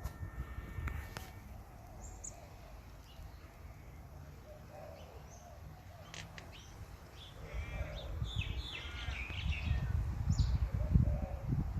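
A cockatoo giving a few short calls, then a run of harsh screeches about eight to nine and a half seconds in, over a low rumble that grows louder toward the end.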